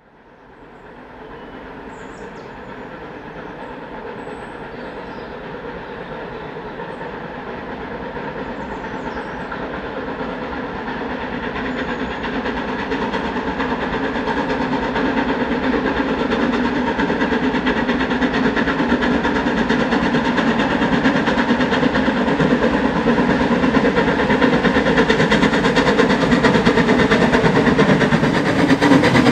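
Steam locomotive approaching at work, its rapid exhaust beats growing steadily louder from faint to loud.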